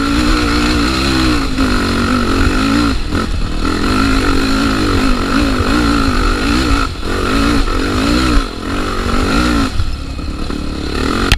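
Trail motorcycle engine revving up and down repeatedly as the bike rides over rough dirt trail, the throttle easing off briefly now and then.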